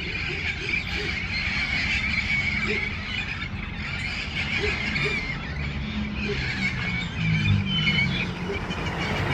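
A flock of parrots chattering and squealing: a dense, unbroken mass of short overlapping calls, with a low rumble underneath.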